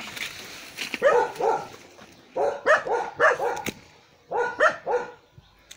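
A dog barking in quick runs of three to five barks, with short pauses between the runs.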